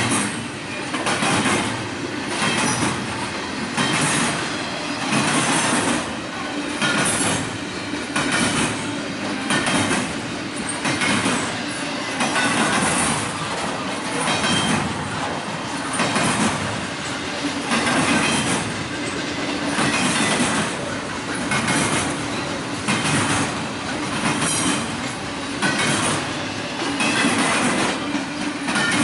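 A train's cars rolling past, their wheels clicking over the rail joints in a steady rhythm of about one swell a second.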